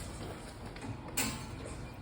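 Subway station background noise with a single sharp clack about a second in.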